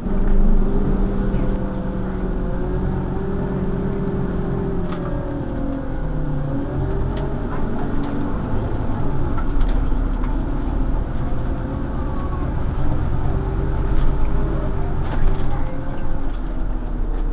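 Scania OmniCity single-deck bus's diesel engine running under way, heard from inside the saloon. The engine note shifts in pitch about five seconds in, then holds steady.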